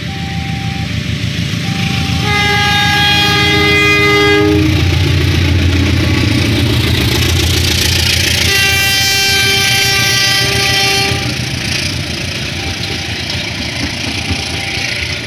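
CC 201 diesel-electric locomotive passing close by and sounding its horn in two long blasts, each about two seconds, a couple of seconds in and again around the middle. Its heavy engine rumble peaks between the blasts, then eases into the steady rolling of the passenger carriages over the rails. A level-crossing warning tone repeats at the start.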